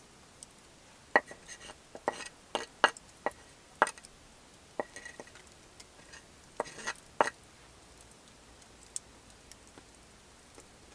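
Irregular light clinks and knocks of dishes and utensils, a dozen or so within the first seven seconds, then only a few faint ticks.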